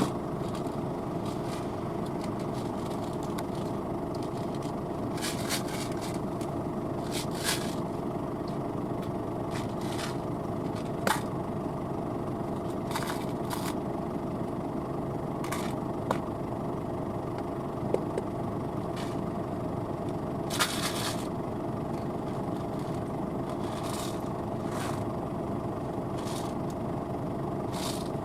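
Claas Lexion 770 TT combine harvester running steadily, a constant mechanical drone with a held whine. Short irregular crackles and scrapes sound over it every second or two.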